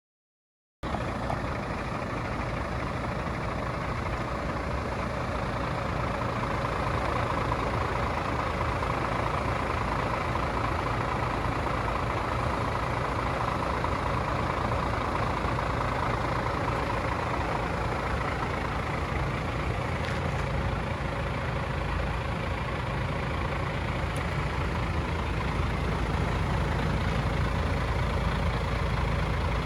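A DAF CF 450 truck's 450 bhp Paccar Euro 6 diesel engine idling steadily, starting abruptly about a second in.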